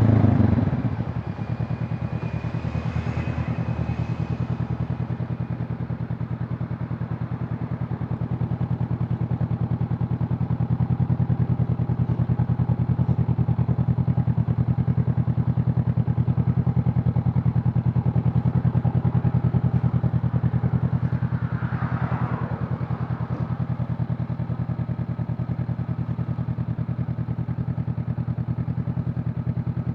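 Honda CB500 Hornet's parallel-twin engine and exhaust easing off at the start, then running steadily at low revs. A brief falling whoosh passes about two-thirds of the way through.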